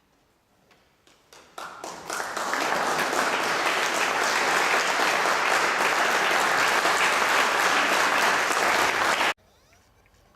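Audience applause: a few scattered claps that swell within about two seconds into full, steady clapping, which cuts off abruptly near the end.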